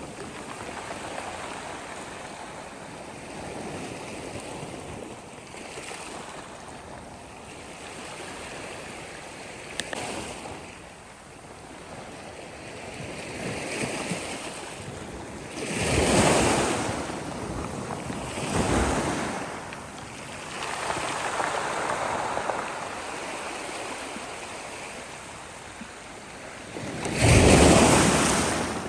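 Sea waves on a shore: a steady rush of surf, with waves breaking louder about halfway through and again a few seconds later, and the loudest wave near the end.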